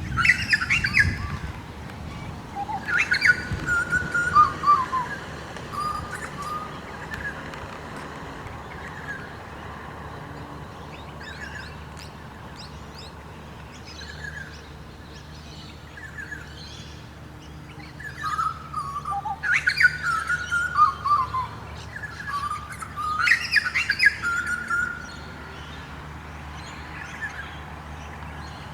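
Wild birds calling: scattered chirps, with three louder bouts of quick notes falling in pitch, a few seconds in and twice more in the second half. A faint steady low hum lies underneath.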